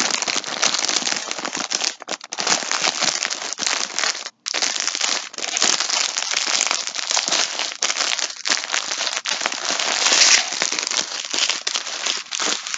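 Plastic packaging crinkling and rustling close up as yarn skeins are handled, a dense crackle that stops briefly about four seconds in and then carries on.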